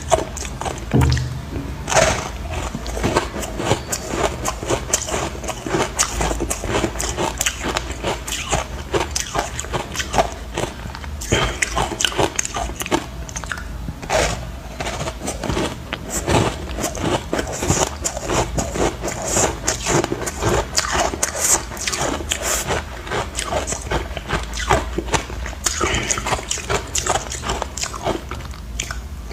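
Close-up crunching and chewing of ice chunks dusted with matcha powder: a dense run of sharp cracks and crunches, bite after bite.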